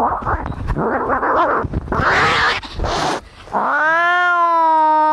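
Angry cats fighting: rough growling and hissing, then about three and a half seconds in a long, steady yowl that is held on.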